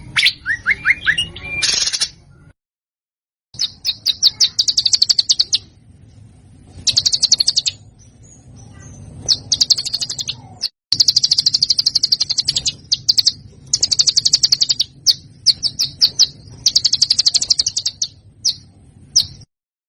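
Recorded songbird song: repeated bursts of rapid, harsh, dense high-pitched trills, each a second or two long, with short single notes between them. The recording drops to dead silence for about a second near the start, and again briefly near the end, where recordings are spliced together.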